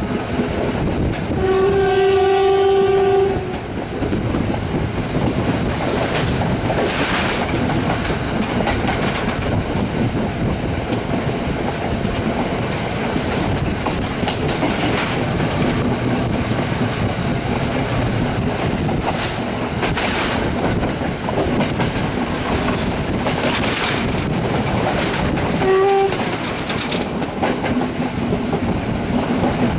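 Passenger train running at speed, heard from a coach window: a steady rolling rumble with the clickety-clack of wheels over rail joints. A train horn sounds one steady note for about two seconds near the start and gives a short blast near the end.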